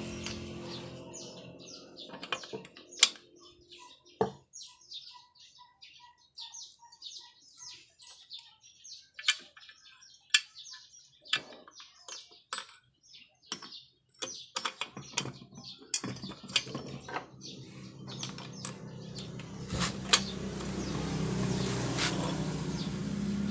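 Irregular light clicks and taps of small metal parts and hand tools being handled during motorcycle engine work. Faint repeated chirps come in early, and a low steady hum rises over the last few seconds.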